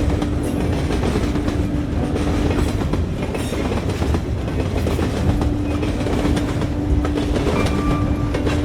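Passenger train running along the track, heard from inside the carriage: a steady rumble with wheel clatter and a steady hum that drops out for a few seconds in the middle.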